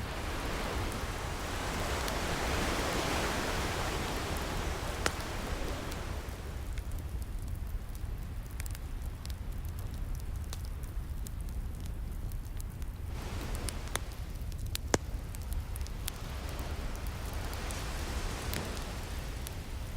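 Ocean waves washing in: a hiss swells and fades over the first few seconds and builds again near the end, over a steady low rumble. Sharp pops of a crackling wood fire are scattered through it, the loudest about five and fifteen seconds in.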